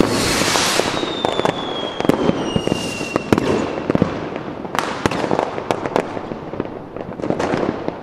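Fireworks going off: a whistle that falls slowly in pitch over the first few seconds, with sharp cracks and bangs scattered throughout.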